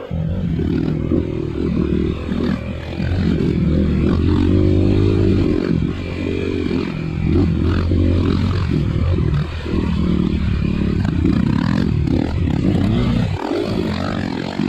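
Dirt bike engine under way on an off-road trail, its pitch rising and falling as the throttle is worked, with a brief drop near the end.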